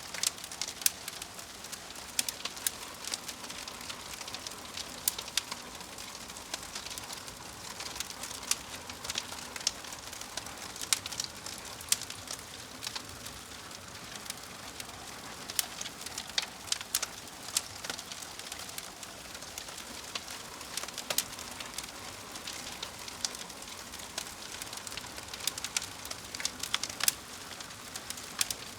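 Wood fire crackling: irregular sharp pops and snaps, some louder than others, over a soft steady hiss of burning.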